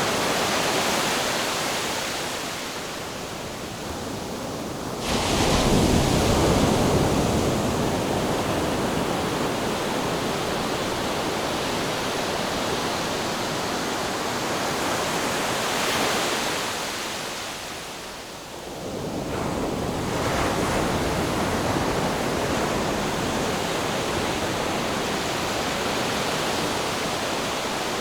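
Ocean surf: a steady rush of breaking waves, with a short lull and then a wave crashing in suddenly about five seconds in, and another lull and surge around nineteen seconds.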